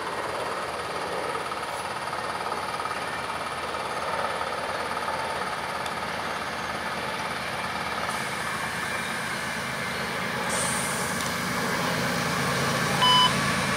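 Approaching freight train led by GE ES44C4 diesel locomotives: a steady rumble of engines and wheels on rail that grows louder over the last few seconds. A short beep sounds near the end.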